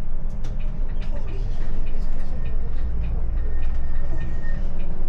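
Low, steady vehicle rumble, heaviest in the middle, with scattered light clicks and a brief thin high tone.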